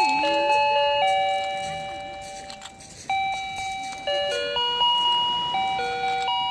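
Electronic tune from a battery-powered toy fishing game: a simple beeping melody of single held notes that fades and then starts up again louder about three seconds in, with quicker notes after that.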